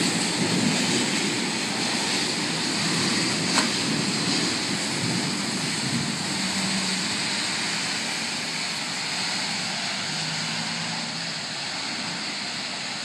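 Steady rushing hiss of a rainstorm, with car tyres swishing past on the wet road; the noise eases off gradually, and there is one brief tap about three and a half seconds in.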